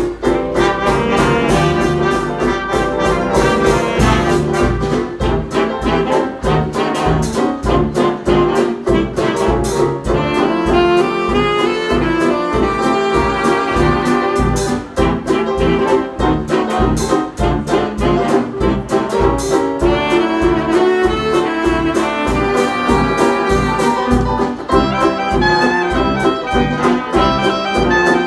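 Instrumental break of a 1920s dance-band jazz record: brass and saxophones play the tune over a steady bass beat.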